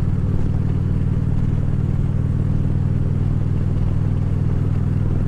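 Harley-Davidson Ultra Classic Limited's V-twin engine running at a steady cruise. The pitch holds even throughout, with a haze of road and wind noise over it.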